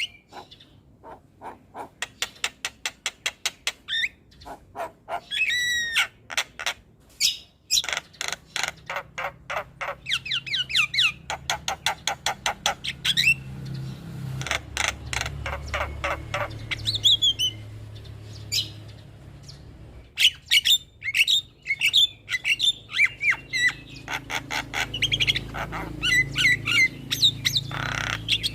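Javan mynas (jalak kebo) calling: rapid runs of sharp, chattering notes several a second, broken by short pauses, mixed with squawks and whistled glides.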